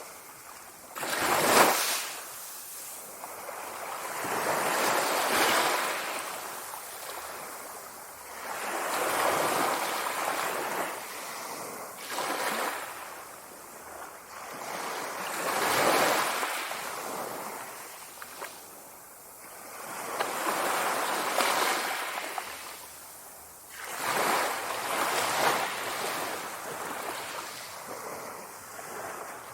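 Sea waves washing in and drawing back, swelling and fading about every four to five seconds, with the loudest surge about a second and a half in.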